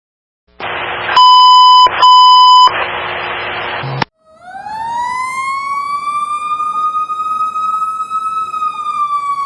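Fire engine warning devices: a loud, rough horn blast with two long steady electronic horn tones laid over it, cutting off abruptly about four seconds in. Then a mechanical siren winds up, rising slowly in pitch, holding near the top and starting to fall back near the end.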